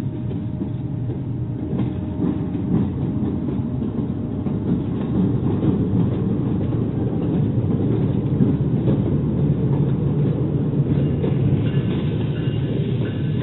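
Pakistan Railways diesel locomotive and its passenger coaches passing at close range: a steady heavy rumble with wheels clicking over the rail joints. A faint high squeal joins in near the end.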